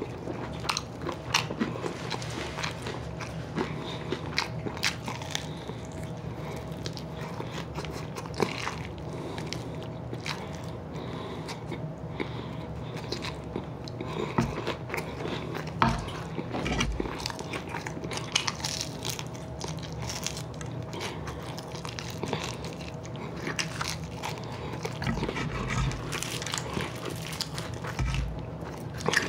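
Chewing and biting into crispy fried chicken wings: many small, irregular crunches as the breaded meat is eaten off the bones.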